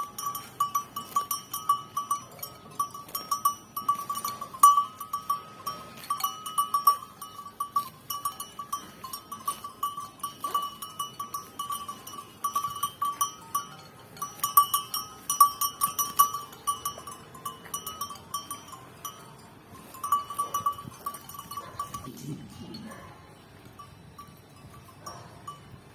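A small metal bell on a grazing buffalo jingling in quick, uneven strikes. It pauses near 19 seconds, rings again briefly, then fades out near the end.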